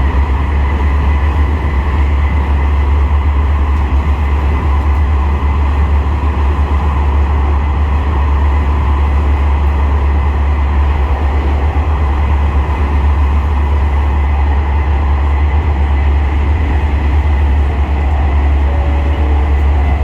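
Aizu Railway AT-751 diesel railcar running along the line: a steady deep rumble of engine and wheels on rail with a faint steady whine above it.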